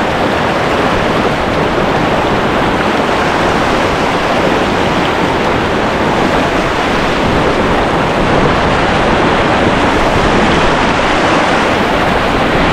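Loud, steady rush of whitewater pouring through a river rapid.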